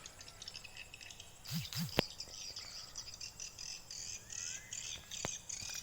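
A swarm of swiftlets twittering, with rapid high-pitched chirps repeating throughout and two sharp clicks, about two seconds in and near the end.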